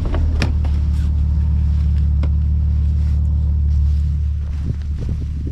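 Vehicle engine running with a steady low rumble, with a few sharp clicks over it; the rumble drops a little about four and a half seconds in.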